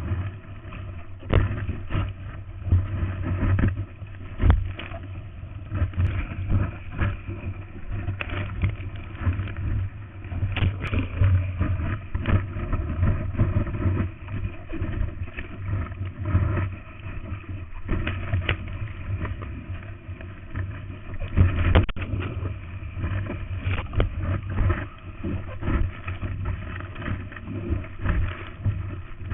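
Seawater splashing and rushing over a first-generation GoPro Hero in its waterproof housing while surfing, in uneven surges with many short knocks.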